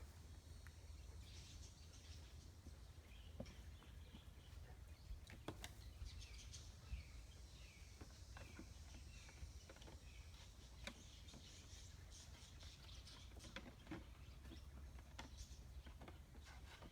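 Faint bird chirps, a short call repeated several times in a row about a third of the way through, over a low steady rumble with scattered light clicks.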